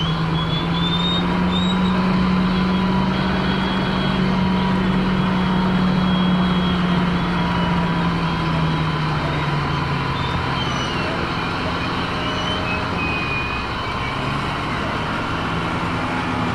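Land Rover driving off-road, its engine running steadily under a constant rumble of wind and tyre noise; the engine note drops a little about halfway through.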